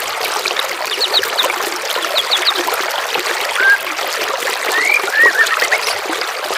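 Steady trickling water with songbirds calling over it: a few quick high chirps about a second in and again a second later, then rising whistled notes near the end.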